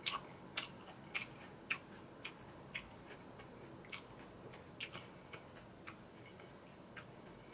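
Close-up mouth sounds of chewing food: a steady run of soft clicks, about two a second.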